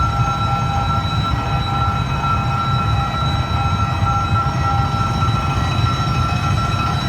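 Train at a station, running steadily: a low rumble with several steady high-pitched whine tones over it.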